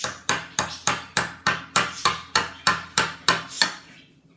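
A tablespoon knocked rapidly and repeatedly against the rim of a mug, about a dozen sharp clinks at roughly three a second, to shake a sticky spoonful of Nutella off into the mug; the knocking stops near the end.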